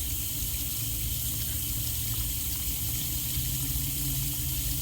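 Steady rush of running water from a hose drenching a rooftop HVAC unit in a leak test.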